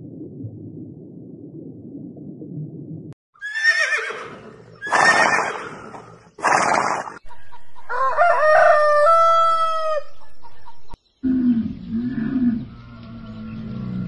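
A run of different animal calls cut one after another: a low rumbling call, then three loud harsh cries, then a rooster crowing for about two seconds, then low calls near the end.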